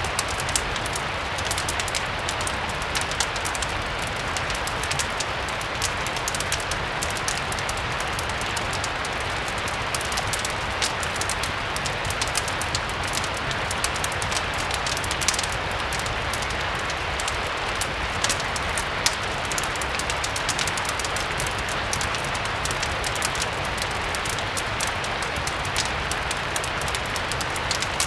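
Steady rain mixed with a crackling fireplace: a continuous even hiss with many small sharp pops and crackles scattered through it, over a low steady rumble.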